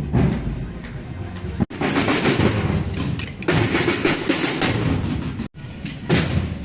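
Street parade band music with drums and percussion, in short clips with abrupt cuts about two seconds in and again near the end.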